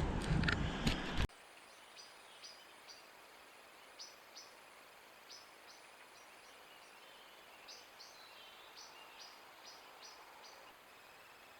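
Wind buffeting the microphone, cut off suddenly about a second in. Then faint hiss with a string of short, high chirps, each sliding down, repeated irregularly, like a small bird calling.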